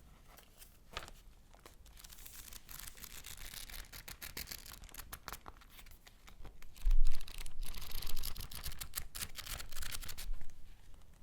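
Paper being handled: a rapid run of crisp rustles and crackles that gets louder about seven seconds in.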